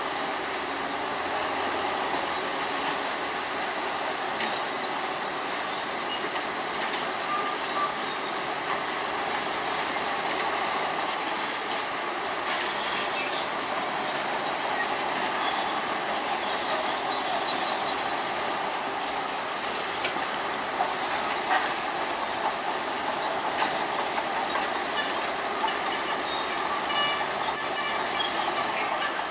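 Bulldozer working, its diesel engine running steadily under the clatter of its steel tracks, with a quick run of sharp metallic clicks near the end.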